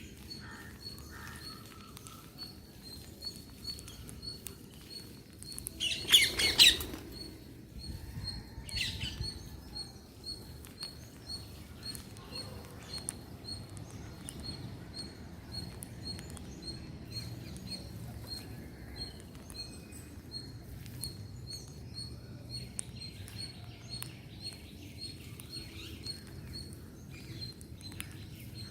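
Green parrots calling: one loud, harsh screech about six seconds in and a weaker call a few seconds later. Behind them a faint high note repeats steadily, about twice a second, with small scattered clicks.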